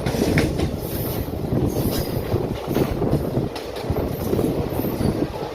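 Passenger train running along the track, a steady rumble of wheels and carriage.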